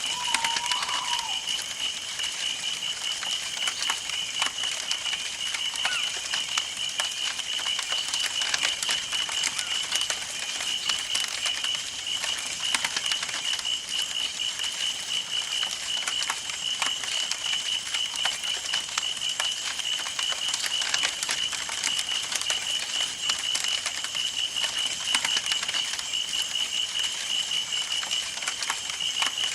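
Campfire burning, wood crackling and popping in dense, irregular snaps, over a steady high-pitched pulsing trill; a short warbling call fades out about a second in.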